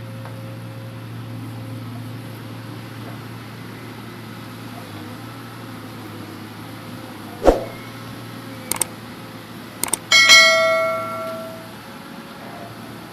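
Hitachi Zaxis 200 excavator engine running steadily while loading logs. Past the middle there is a sharp knock, then two short clanks, then a loud clang of struck steel that rings and fades over about a second and a half.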